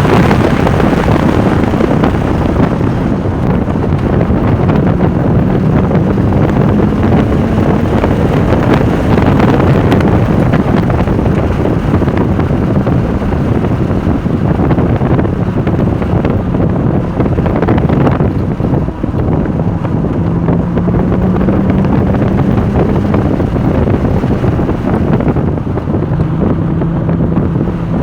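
Porsche 996 Turbo's twin-turbo flat-six at track speed, its engine note rising and falling several times as it accelerates and slows, under heavy wind noise on the microphone.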